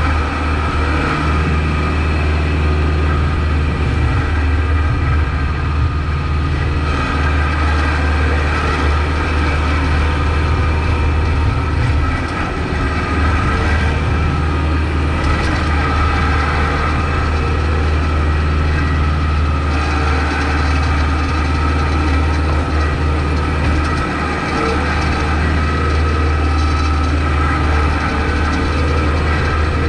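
Kubota MX5200 tractor's four-cylinder diesel engine running steadily while plowing snow, with a brief dip in level about twelve seconds in and again near twenty-four seconds.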